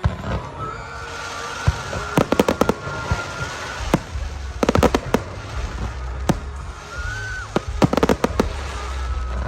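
Aerial fireworks going off: single sharp bangs and three quick volleys of crackling reports over a low booming rumble.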